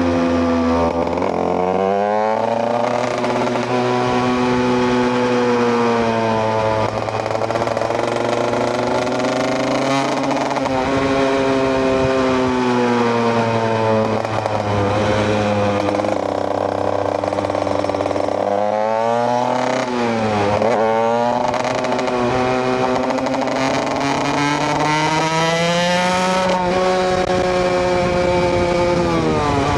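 KTM EXC 125 single-cylinder two-stroke engine riding along, its pitch climbing and falling again and again as the rider opens and closes the throttle through the gears, with a quick drop and sharp rise about two-thirds of the way through.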